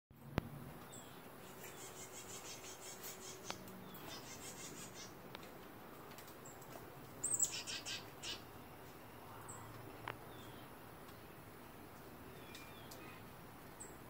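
Small songbirds at a feeder chirping in quick chattering runs of high notes, with the loudest burst of chirps a little past the halfway point.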